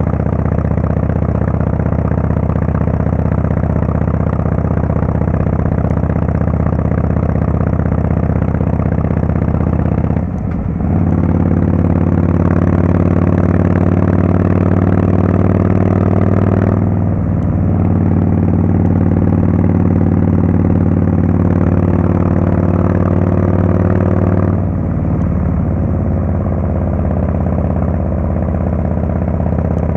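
Harley-Davidson Fatboy S's Screamin' Eagle Twin Cam 110 V-twin running under way through a Kesstech valved exhaust, a steady low engine note. The note dips and breaks briefly three times, about 10, 17 and 25 seconds in.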